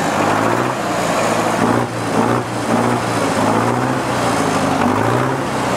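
Heavy truck engine sound, revving in repeated swells about once a second, its pitch gliding up a little each time.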